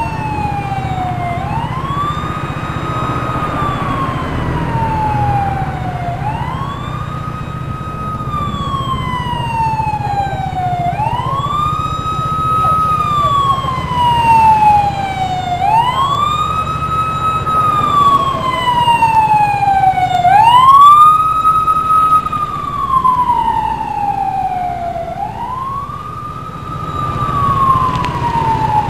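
Electronic siren of a Taiwanese emergency vehicle sounding a slow wail: each cycle climbs quickly, holds briefly at the top, then falls slowly, repeating about every five seconds, six times over. A steady low vehicle rumble runs underneath, and the siren grows louder about halfway through.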